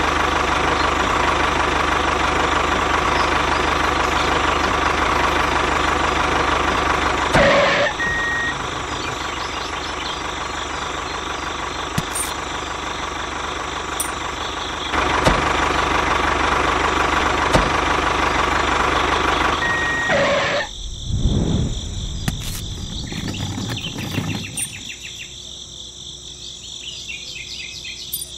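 Tractor engine idling steadily, a bit quieter through the middle stretch, then cutting off about 20 seconds in. A few low rumbles follow, then a faint steady background.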